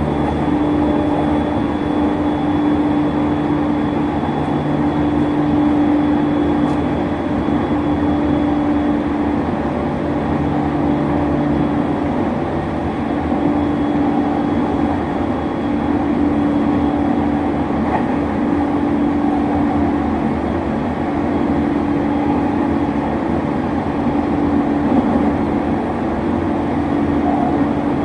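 Running noise of a JR East E231-1000 series electric multiple unit at speed: a steady rumble of wheels on rail with a constant low hum from the running gear.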